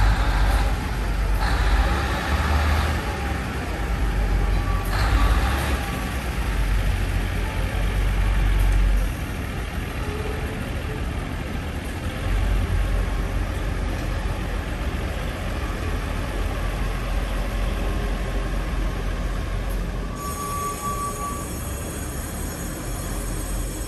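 DR2100-series diesel railcar set running, a heavy low rumble with two short bursts of hiss about 1.5 and 5 seconds in; the rumble eases about 9 seconds in.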